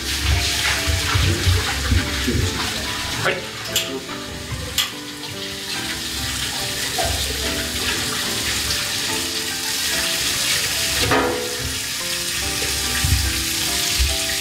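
Meat slices sizzling loudly as they are stir-fried in a wok over a high gas flame, with a few sharp clicks of the chopsticks against the wok, under background music.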